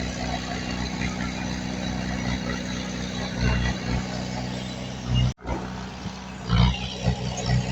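Heavy diesel engine of earthmoving machinery running steadily, with several brief louder surges and a momentary dropout a little after five seconds.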